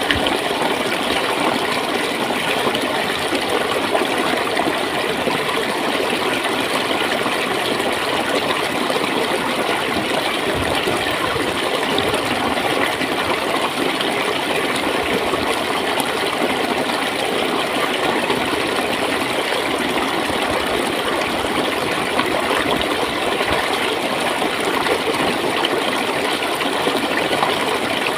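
Clear water flowing and gurgling steadily in a stream, an even rushing sound with no breaks.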